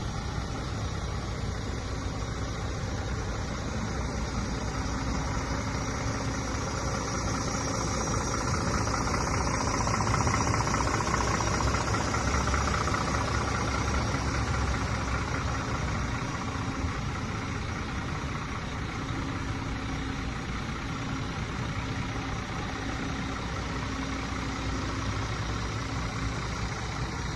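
Scania R410 truck's 13-litre inline-six diesel idling steadily, growing louder for a few seconds around the middle before settling back.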